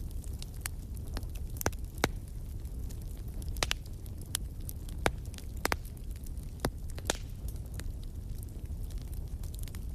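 Wood fire burning in a fireplace: a steady low rumble of flames with irregular sharp crackles and pops from the burning logs, a cluster of them in the middle.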